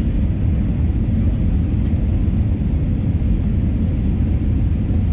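Steady low rumble of airliner cabin noise heard from a passenger seat, jet engines and airflow over the fuselage, on approach before landing.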